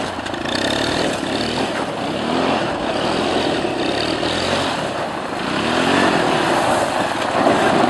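ATV quad bike engine running, its pitch rising and falling a couple of times under a steady rushing noise.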